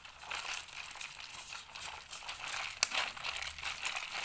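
A spoon stirring and scraping half-frozen ice cream inside a tin can, irregular scratchy strokes with one sharp click a little under three seconds in.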